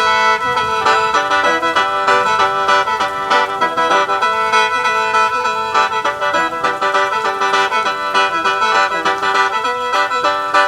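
Khaen, the Lao/Isan bamboo free-reed mouth organ, playing a lively melody over steady held drone notes.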